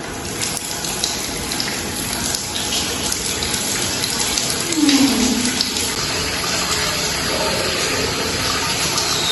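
Water running steadily, growing a little louder, with a short falling tone about five seconds in.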